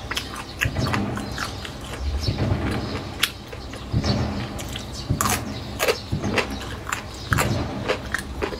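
Close-up eating: braised bamboo shoot strips and meat being chewed, with wet mouth smacks and clicks about two or three times a second.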